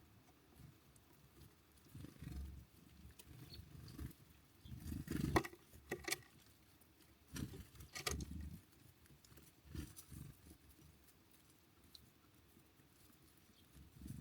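Birds moving about on the feeder close to the microphone: irregular low thumps and a few sharp taps, loudest about five seconds in.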